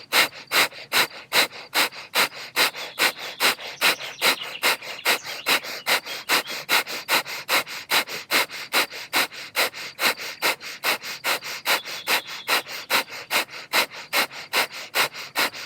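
Fire breath (kapalabhati): rapid, forceful exhales pushed out through the nose in an even rhythm of about three a second, each inhale happening passively between the pushes.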